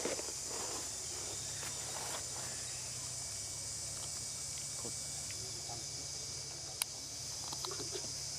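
A steady, high-pitched insect chorus, with scattered small clicks and rustles and one sharp tick about seven seconds in.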